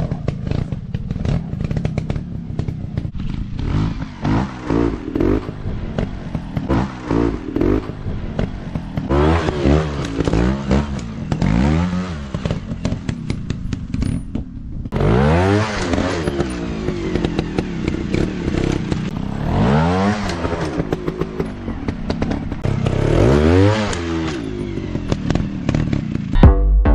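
Dirt bike engine revved up and down again and again, its pitch rising and falling every second or two, with many short clicks and knocks over it.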